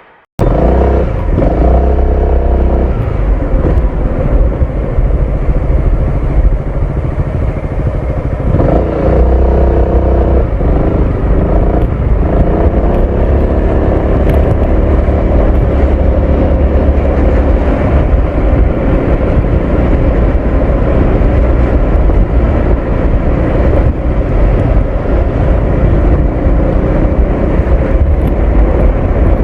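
Honda ADV 350 scooter's single-cylinder engine and exhaust running on the road, rising in pitch as it accelerates about a second in and again about nine seconds in, then cruising at a steadier pitch with a heavy low rumble.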